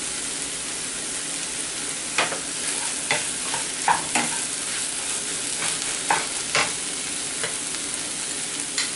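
Sliced mushrooms, onion and tomato frying with a steady sizzle in a pan while a wooden spoon stirs them. From about two seconds in, the spoon scrapes and taps against the pan every second or so.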